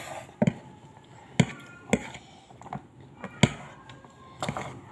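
Eating noises: five or six sharp, separate clicks and taps spread over a few seconds.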